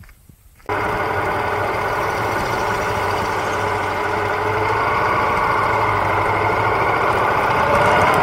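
Yamaha Ténéré 700 parallel-twin engine running steadily while riding on a dirt road; it cuts in abruptly under a second in, after a few soft footsteps. The engine note rises slightly near the end as the bike speeds up.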